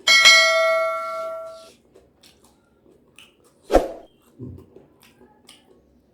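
Tableware struck at the eating table, ringing with several clear tones that fade over about a second and a half; a single dull knock follows about four seconds in, amid faint eating noises.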